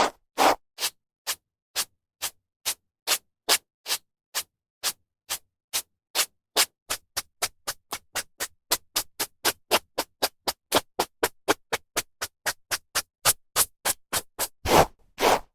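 A hairbrush stroked through hair: short bristly swishes with silence between them. They come about two a second at first, quicken to about four a second in the middle, and end with a few longer, louder strokes.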